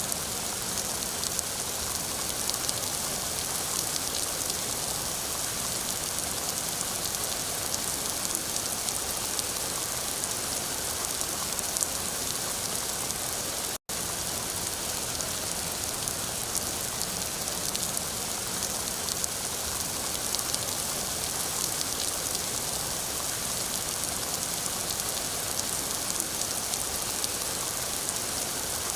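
Steady rain falling on a surface: a constant hiss with many small drop ticks. It cuts out for an instant about halfway through.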